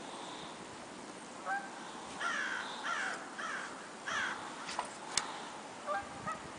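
Crow cawing four times in quick succession, harsh falling calls about half a second apart, followed by two sharp clicks.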